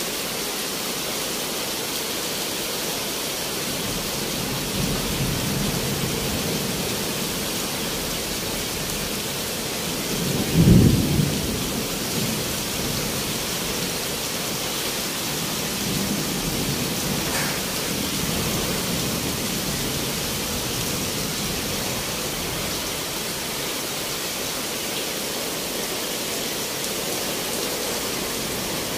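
Steady rain falling on a street and trees, an even hiss. About ten seconds in, a brief low rumble stands out above it.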